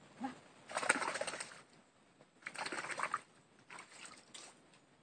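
A dog vocalizing in short, rapid, warbling bursts, three times; the first is the loudest.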